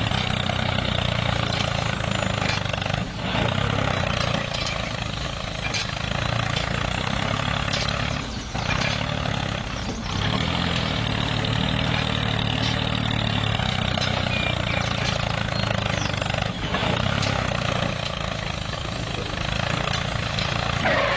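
Homemade mini tractor model's motor running steadily, a low hum with a few brief clicks and knocks along the way.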